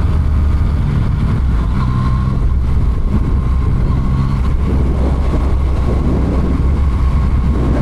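Motorcycle engine running at an easy cruising pace, heard from the rider's own bike with a steady, low engine note.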